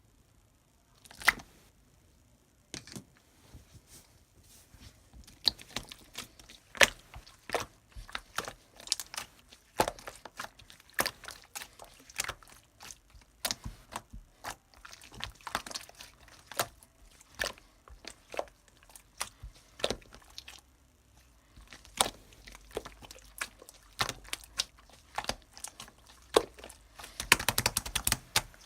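Hands squishing and poking slime, making irregular sharp clicks and pops, with a dense flurry of them near the end.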